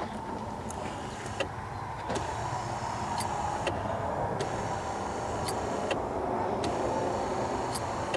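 Electric windshield wiper motor of a 1998 Corvette C5, a newly fitted aftermarket unit, running the wipers on test: a steady motor hum with sharp clicks about once a second.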